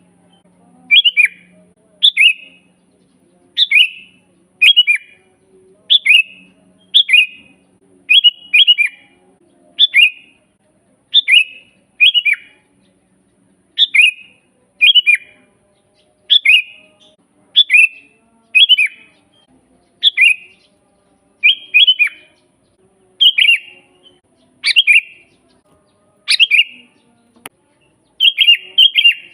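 Sooty-headed bulbul (kutilang) calling over and over. Each call is a short, bright phrase of a few quick falling notes, and the calls come about once a second, now and then two in quick succession.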